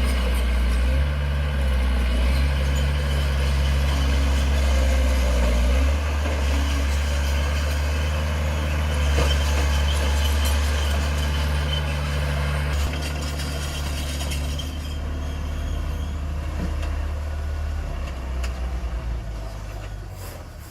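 Heavy diesel engine running steadily with a deep low hum, growing quieter from about fifteen seconds in.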